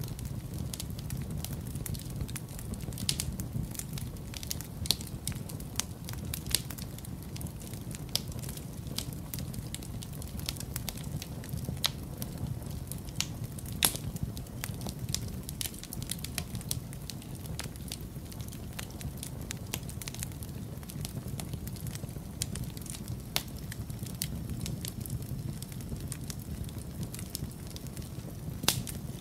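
Wood fire crackling in a fireplace: irregular sharp pops and snaps, a few louder ones scattered through, over a steady low rumble.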